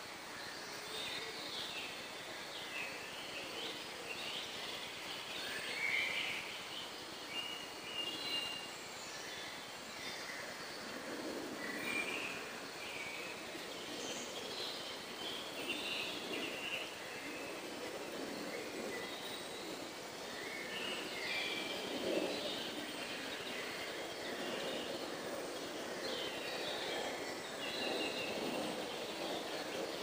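Forest birds singing and calling now and then, short chirps scattered through the whole stretch, over a steady low background noise that grows a little louder in the second half.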